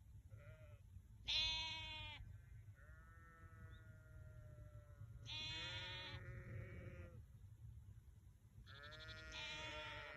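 Several sheep bleating in turn, at different pitches: a short call, a loud one about a second in, a long, lower drawn-out bleat, then two more near the middle and near the end. A steady low rumble runs underneath.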